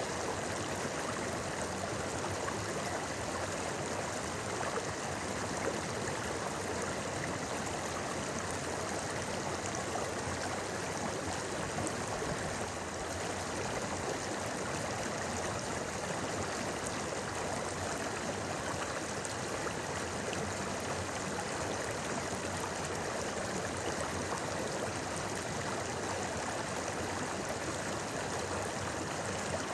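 A shallow, clear river flowing and babbling over stones, a steady rushing murmur without pause.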